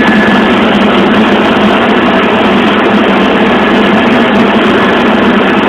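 Helicopter in flight: a loud, steady engine and rotor drone with a faint, steady high whine.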